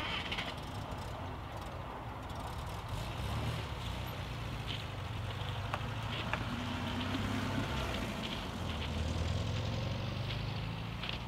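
Škoda 105/120-series saloon's rear-mounted four-cylinder engine running, first idling, then pulling away and driving off.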